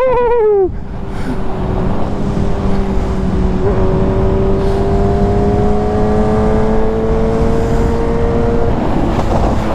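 Sportbike engine at high revs easing off with a falling pitch and cutting out about half a second in, then pulling steadily again, its pitch rising slowly as the bike gains speed. Heavy wind rush runs underneath.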